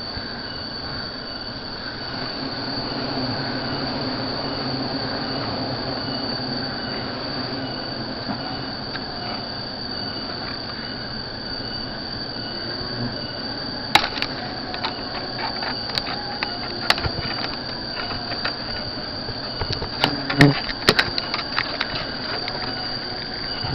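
A steady, high-pitched insect drone over a rustling hiss. From about halfway through, a scattering of sharp clicks and cracks comes in, thickest near the end.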